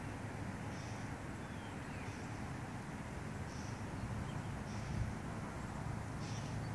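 Small birds chirping: short high calls repeating irregularly about once a second over a steady low rumble.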